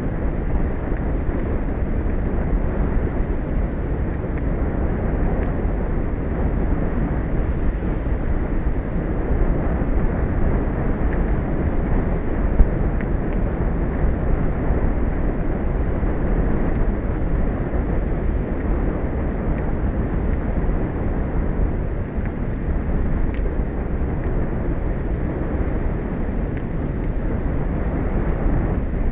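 Steady low rumbling outdoor noise of wind and sea on an exposed microphone, even throughout, with one sharp click about twelve seconds in.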